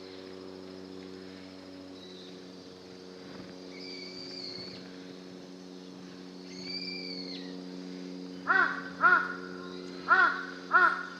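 Wild birds calling: a larger bird gives four loud, clear, arched calls a little over half a second apart near the end, after two faint high-pitched calls of a smaller bird, over a steady low hum.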